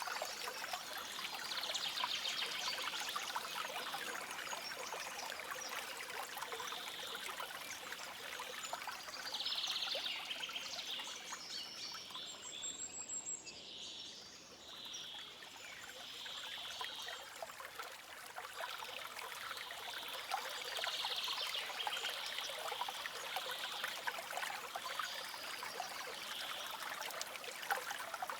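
Forest stream trickling and babbling steadily over stones, easing off briefly about halfway, with faint bird chirps.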